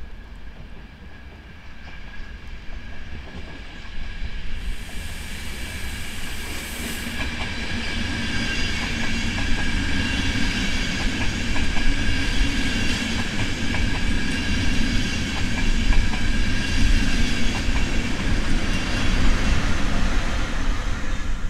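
A train coming through, growing louder over the first several seconds and then running close by, with a steady whine over a deep rumble and quick clicks of wheels over rail joints.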